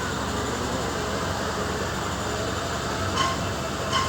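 MEMU electric multiple-unit train running into a station, a steady rumble with two sharp clacks near the end, about three-quarters of a second apart.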